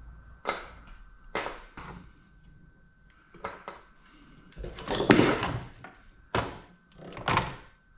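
Metal computer parts being handled and pulled apart: a string of light clanks and knocks, with the loudest clatter about five seconds in. A faint steady high whine sits underneath.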